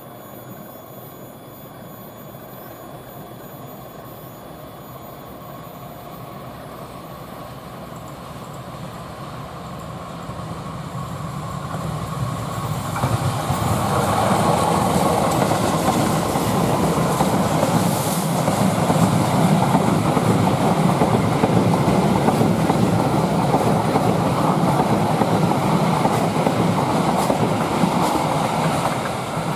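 A train approaching along the track, growing steadily louder until it reaches the spot about 14 seconds in, then its wagons running past with wheels clattering over the rail joints; the sound eases a little near the end.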